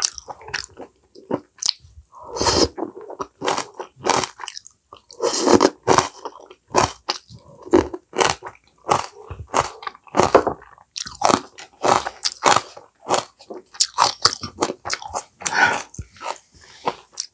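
Close-miked chewing of crisp leafy kimchi greens: continual wet crunching and biting, many short crunches in quick succession with a few longer, louder chewing passages.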